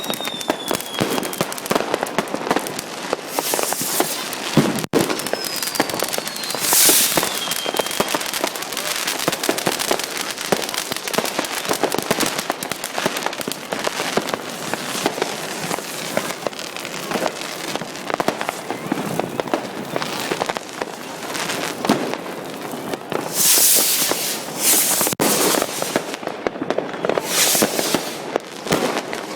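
Fireworks and firecrackers going off continuously, a dense mix of bangs and crackling. A few whistles fall in pitch, one at the start, one about seven seconds in and one at the very end, and several bursts of hissing come around four, seven and twenty-four seconds in.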